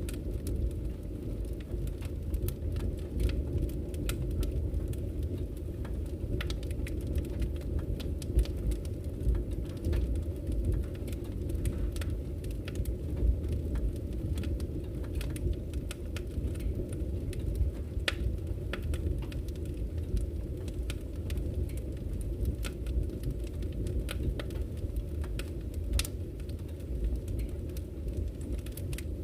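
Wood fire burning in a fireplace: a steady low rumble of the flames with frequent sharp crackles and pops from the burning logs scattered throughout.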